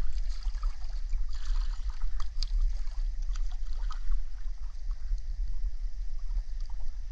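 Small boat moving on a river: water splashing and lapping, with scattered small splashes over a steady low rumble.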